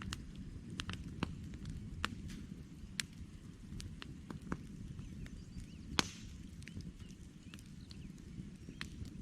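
Wood campfire crackling: irregular sharp pops and snaps over a low steady rumble of burning, with one louder pop about six seconds in.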